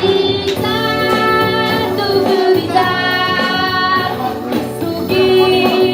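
A song sung by a solo voice over instrumental backing, the voice holding and gliding between notes.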